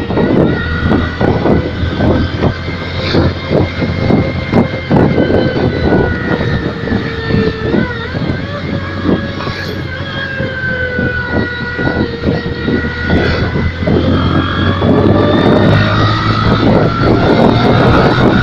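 Honda New Megapro motorcycle running with an electronic sound booster that plays a simulated racing-engine note. A steady whine, its pitch wandering slightly, sits over irregular engine pulses and grows a little louder near the end.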